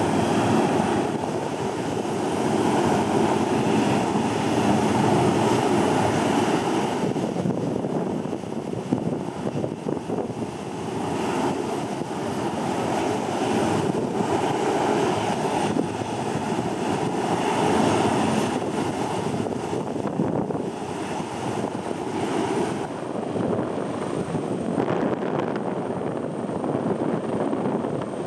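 Jet airliner engines running, with a faint steady high whine, under heavy wind buffeting the microphone that swells and eases in gusts.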